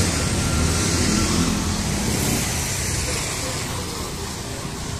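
Street traffic: a motor vehicle's engine passes close in the first second or two and then fades, over a steady hiss of road noise.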